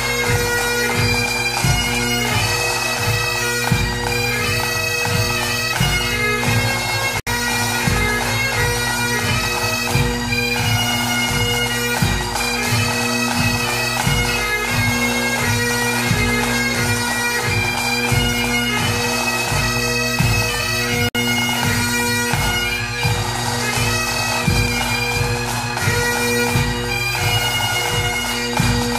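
Bagpipe music: steady drones held under a moving melody, with a regular beat in the bass.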